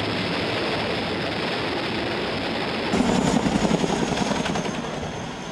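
Helicopter rotor and engine noise, a dense steady rush. About three seconds in it grows louder and heavier, with a fast pulsing chop.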